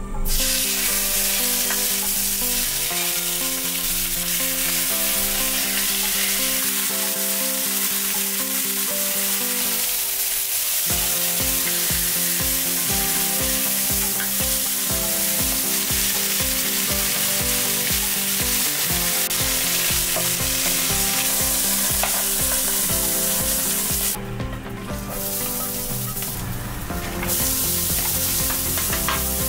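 Bone-in chicken thighs frying in oil in a stainless steel deep frying pan, a steady sizzle that dips twice briefly near the end. Background music plays along, with a regular beat from about a third of the way in.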